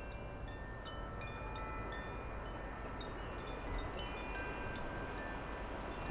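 Wind chimes tinkling: many short ringing notes at different pitches, scattered irregularly, over a steady rush of wind.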